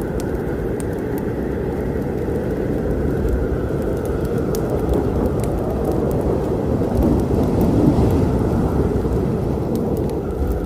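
Rolling thunder rumbling over steady rain, swelling to its loudest about eight seconds in, with the scattered sharp pops of a crackling wood fire.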